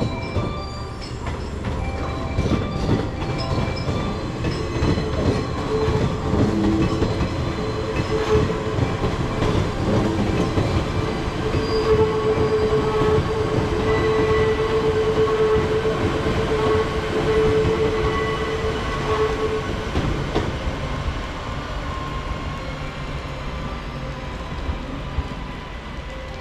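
JNR 381-series electric train running past along the platform, a loud rumble and clatter of its wheels with a steady high squeal held for many seconds through the middle. The sound eases off over the last few seconds as the train draws away.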